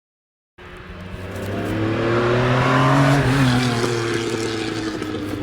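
After about half a second of silence, a car engine running hard comes in, growing louder and rising in pitch to a peak about three seconds in, then falling in pitch and easing off a little.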